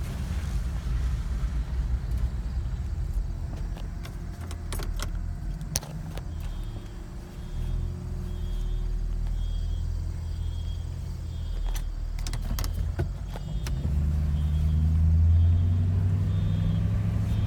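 A 2007 Ford Crown Victoria driving, heard from inside: a steady low road-and-engine rumble with a few sharp clicks and knocks, growing louder over the last few seconds as it picks up speed.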